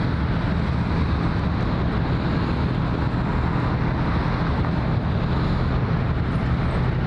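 Steady low engine drone with a constant hum, under wind noise on the microphone.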